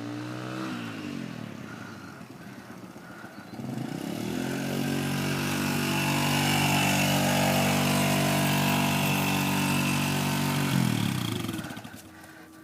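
Dirt bike engine: its note falls early, then climbs and grows louder about four seconds in and holds at high revs for several seconds. It then drops in pitch and fades away near the end.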